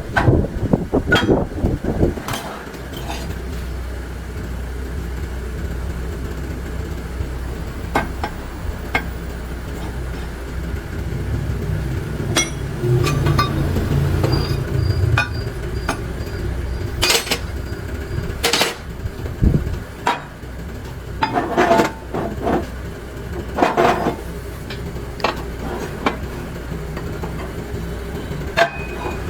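Metal clinks and knocks at irregular intervals, over a steady low hum.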